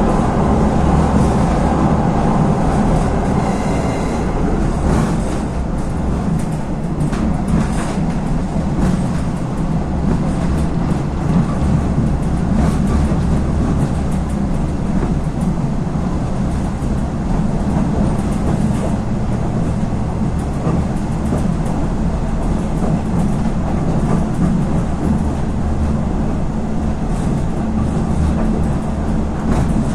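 Regionova diesel railcar running along the line: a steady low drone with the rattle and scattered clicks of wheels and carriage body on the track.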